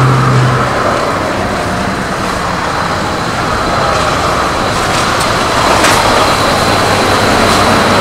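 Scania 143's V8 diesel truck engine running loud and heavy, with a steady low tone in the first second.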